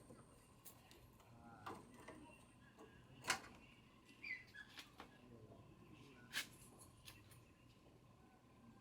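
Near silence with a few scattered short clicks and knocks, two of them louder, about three and six seconds in.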